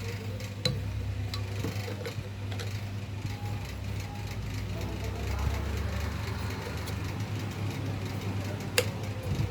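Table fan's electric motor running with a steady low hum, with a sharp click about a second in and another near the end.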